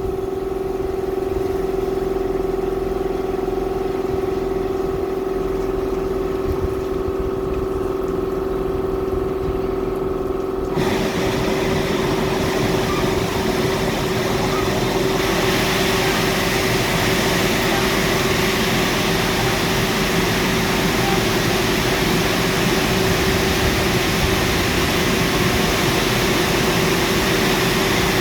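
Washtec SoftCare Pro rollover car wash running: a steady machine hum, then the wash starts on the car with a rushing hiss about eleven seconds in, growing louder a few seconds later.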